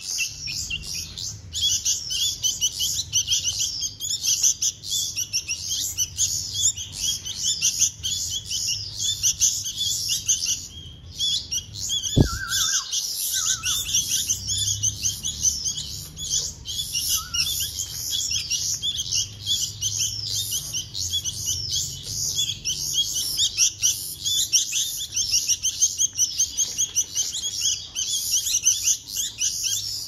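Baby bulbuls begging for food: rapid, near-continuous high-pitched chirping, pausing briefly about ten seconds in. A single short knock sounds about twelve seconds in.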